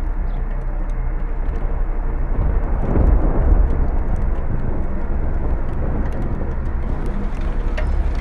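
Loud, low droning hum with steady tones, of the kind presented as a mysterious noise in the sky. It swells to a peak about three seconds in, then eases back to a steady drone.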